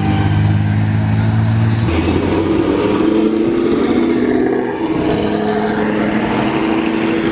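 Car engine running hard as a car pulls away. Its note shifts abruptly about two seconds in, dips briefly near the five-second mark, then climbs again.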